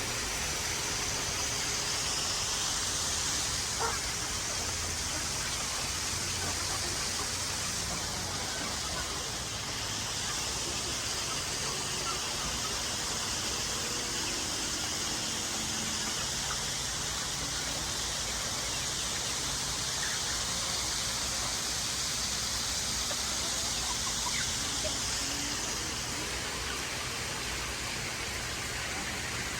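Steady hiss of water spraying from a garden hose onto plants.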